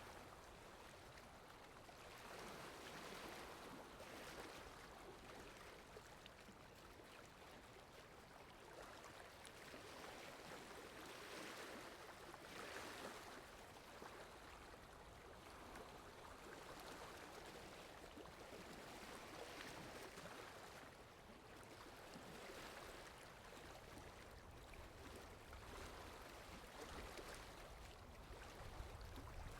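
Faint, steady forest rain ambience: an even rush of water that swells and eases.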